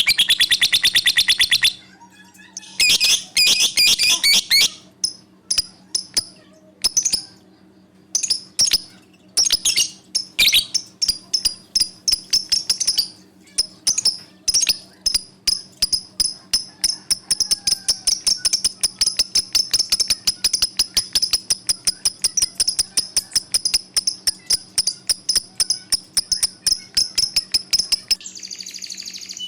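Caged budgerigars and lovebirds chirping: rapid trains of sharp, high chirps, several a second, broken by short pauses early on and then running on steadily, over a faint steady low hum.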